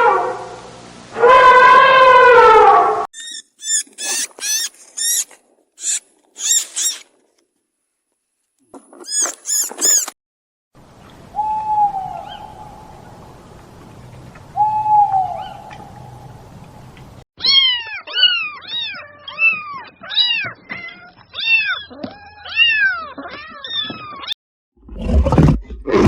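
A run of different animal calls in short separate clips: a long pitched call at the start, bursts of short high chirps, two single falling calls, then a quick series of high mewing cries.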